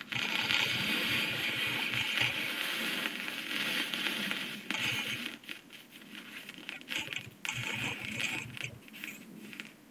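Homemade rocket fuel burning with a steady hiss and crackle, which turns patchy and sputtering over the second half.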